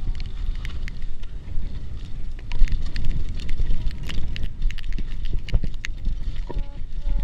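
Hardtail mountain bike ridden down a wet dirt trail: a steady low rumble of wind on the microphone and tyres over the ground, with frequent sharp clicks and rattles from the bike as it goes over bumps, and a few short squeaks near the end.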